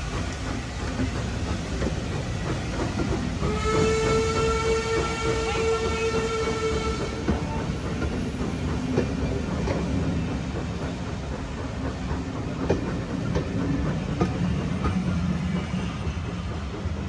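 Railway passenger coaches rolling steadily past at close range, a low rumble with scattered wheel clicks over the rail joints. About three and a half seconds in, a single steady whistle note sounds for about three seconds.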